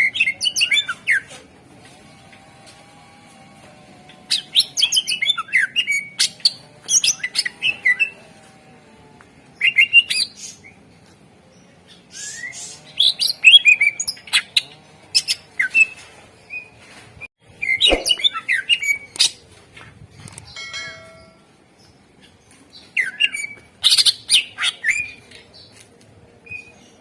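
Cucak ijo (green leafbird) singing in separate bursts of rapid chirps, sharp ticks and trills, each phrase a second or two long with a few seconds between them. There is a sharp knock about eighteen seconds in. This is a lure song, meant to provoke other cucak ijo into singing.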